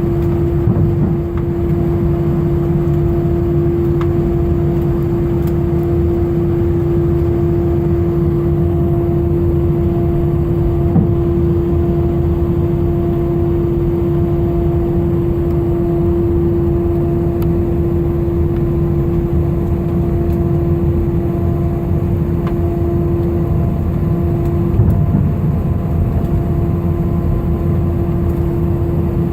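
Airliner cabin noise during the climb after takeoff: jet engines give a steady roar with a constant droning hum, which briefly wavers about three-quarters of the way through.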